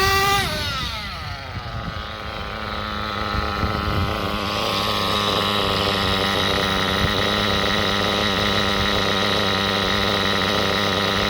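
RB .21 nitro engine of a Kyosho MP10 buggy, revved up at the start and falling back within a second or two to a steady idle. The idle holds even, the single-stage idle the tuning aims for.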